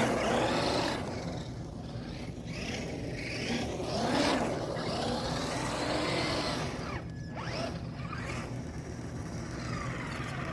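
Brushed electric motor of a Traxxas Rustler RC truck whining up and down in pitch several times as it is throttled and let off during drifts on wet pavement.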